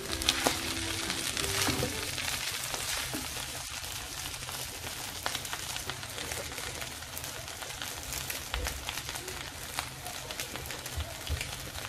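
Fried rice with vegetables and prawns sizzling in a frying pan while it is left to cook: a steady hiss with many small scattered pops and crackles.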